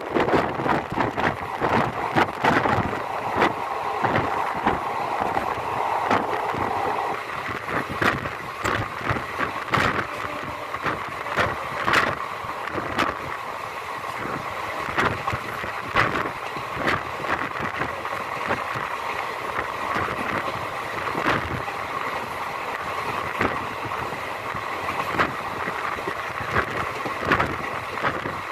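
Express passenger train running, heard from on board: a steady rushing rumble with sharp, irregular clacks and knocks from the wheels and coach.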